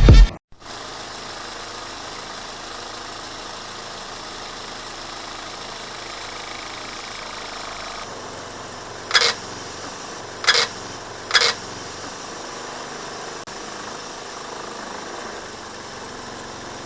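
Car engine idling steadily, with three short, sharp high squeaks about nine to eleven and a half seconds in.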